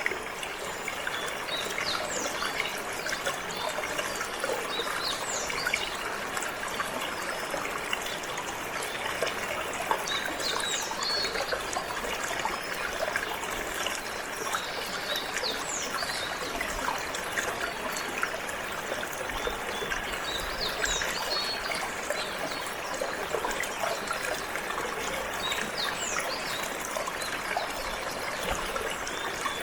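Water trickling steadily, with a canary's short, high chirps scattered throughout.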